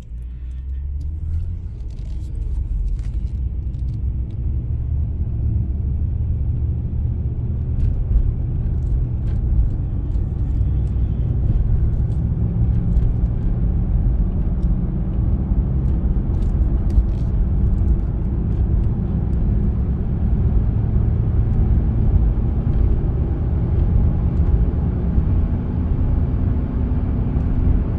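Ford F150's 6.2-litre V8 engine running steadily, with a low rumbling drone that builds over the first few seconds and then holds an even level.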